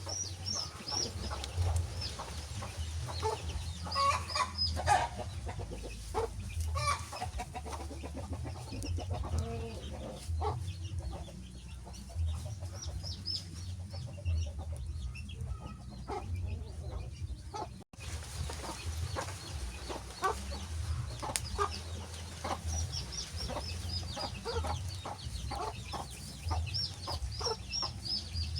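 Wood fire crackling in sharp irregular pops over a low steady rumble, with a bird's rapid high chirps near the start and again near the end. The sound drops out for an instant about two-thirds of the way through.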